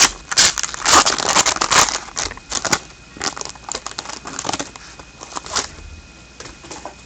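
Hockey trading cards and a pack wrapper being handled: crinkling and rustling. It is loudest and densest in the first two seconds, then turns into lighter, scattered rustles and clicks.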